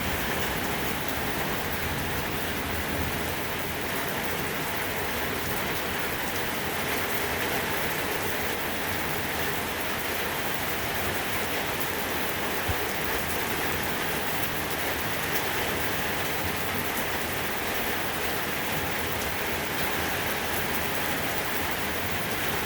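Rain pouring down steadily from a passing thunderstorm, an even hiss of drops with no thunder.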